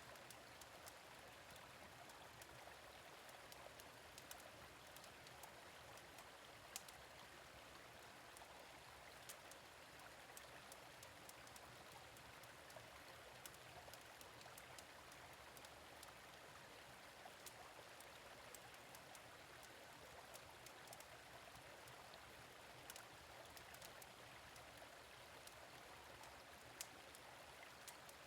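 Faint, steady flow of a gentle stream, with small crackles from a fire pit scattered throughout.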